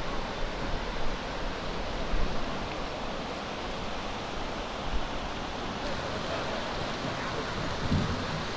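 Waterfall rushing steadily, with a few brief low thumps.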